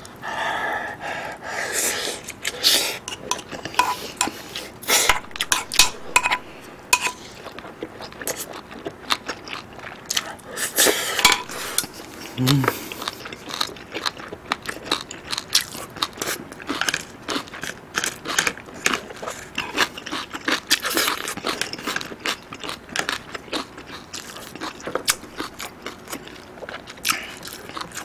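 Close-miked eating: chewing and crunching on rice, beef and crunchy radish kimchi, with chopsticks and a spoon clicking against the dishes. A short low hum from the eater comes about halfway through.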